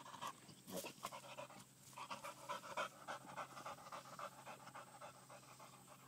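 A dog panting fast and steadily, with a short break about two seconds in.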